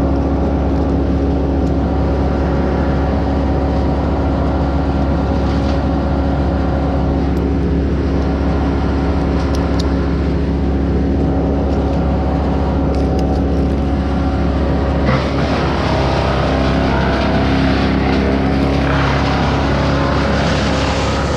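An engine running steadily at a constant speed. About fifteen seconds in, a harsher noise joins it.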